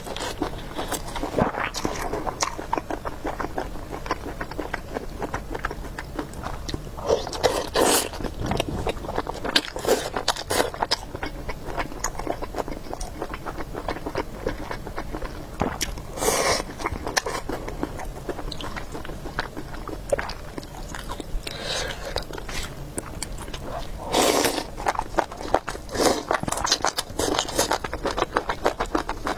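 Close-miked eating sounds from a person eating noodle soup with beef: steady wet chewing with many small mouth clicks, and a few louder noisy bursts of about half a second each.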